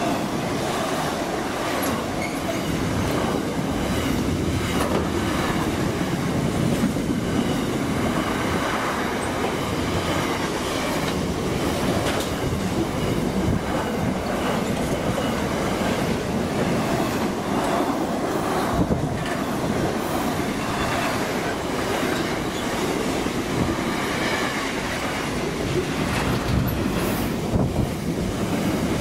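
Container wagons of an intermodal freight train passing close by at speed: a steady, loud rumble of steel wheels on rail with a clatter of wheels over the rail joints.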